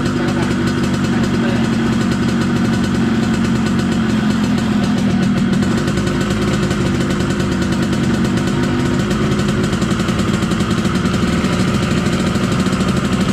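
Yamaha RX-King's single-cylinder two-stroke engine idling steadily with a loud, fast-pulsing exhaust note, as it is tuned for the 'ngorok' (snoring) exhaust sound.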